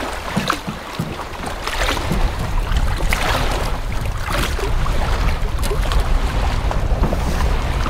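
Wind buffeting the microphone in a gusting low rumble, with scattered short knocks and rustles of handling.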